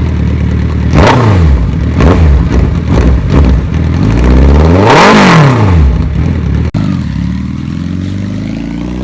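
Suzuki Hayabusa GSX1300R's inline-four engine through an aftermarket SC-Project exhaust, idling and being revved: three quick throttle blips about a second apart, then a longer rev that climbs, peaks about halfway through and drops back to a steady idle. Really loud.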